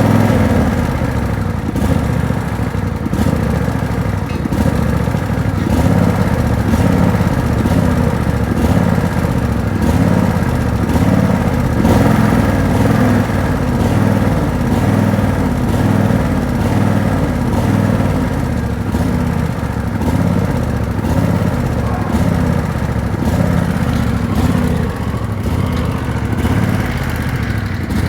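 Tractor engine running steadily at a constant low rumble.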